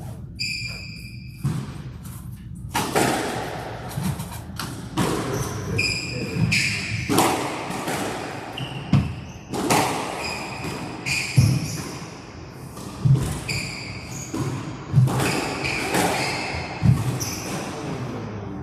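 Squash rally: the ball is struck by rackets and hits the court walls in sharp knocks about once a second, with sneakers squeaking on the court floor between shots.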